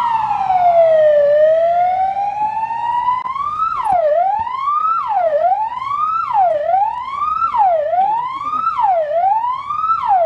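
Emergency vehicle siren wailing: a slow fall and rise in pitch, then about three seconds in it switches to quicker up-and-down sweeps, roughly one a second.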